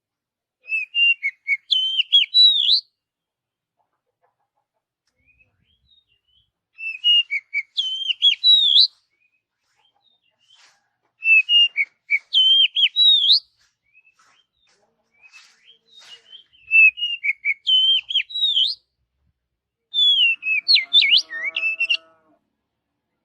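Oriental magpie-robin (kacer) singing: five short phrases of whistled notes that glide up and down, each about two seconds long, with pauses of a few seconds between them. A lower pitched sound joins under the last phrase near the end.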